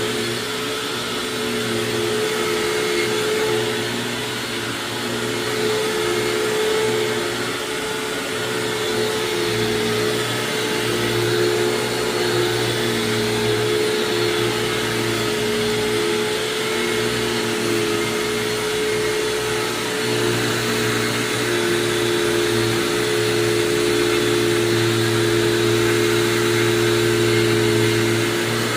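1999 Hoover WindTunnel self-propelled upright vacuum running continuously, its motor humming steadily, with the hum swelling and easing a little as it works.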